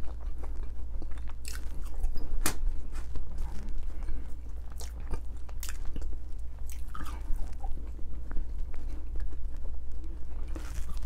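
A person chewing and biting French fries dipped in sauce, with scattered short crisp clicks. A steady low hum runs underneath.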